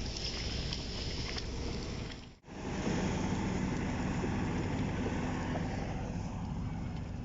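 Heavy tractor engine running steadily. It comes in louder after a brief dropout about two seconds in.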